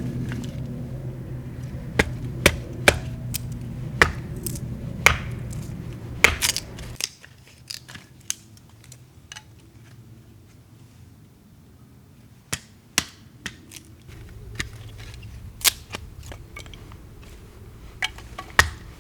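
A series of irregular sharp clicks and knocks over a steady low hum; about seven seconds in the hum drops away and the clicks become sparser.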